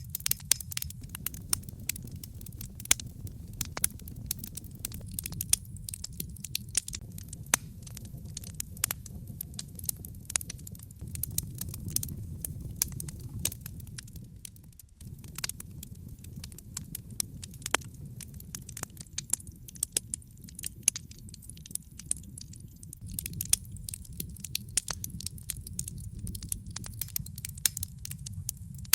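Wood fire burning in a fireplace: logs crackling with frequent sharp snaps and pops over a steady low rumble of the flames.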